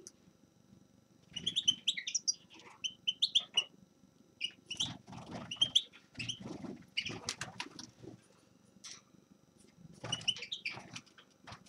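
A small finch singing in several bursts of quick twittering, chirping phrases, with soft low thumps among them.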